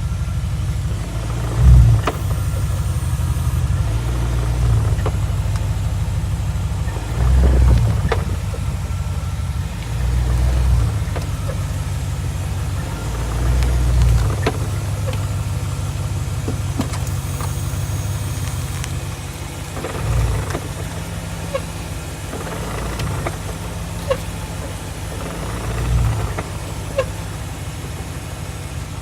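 2004 BMW 645Ci's 4.4-litre V8 running low and steady, with about six heavier low knocks a few seconds apart. This is the knock heard when the car pulls away forwards or backwards, which the owner suspects comes from the SMG gearbox, its hydraulic cylinder, the clutch or the flywheel.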